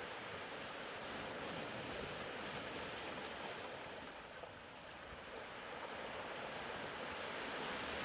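Faint ocean-surf ambience: a soft, even wash of waves that eases off briefly about halfway through and swells back.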